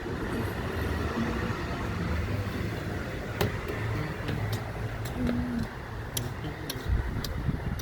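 MARC commuter train rumbling as it pulls out of the station, with scattered sharp clicks from about halfway through.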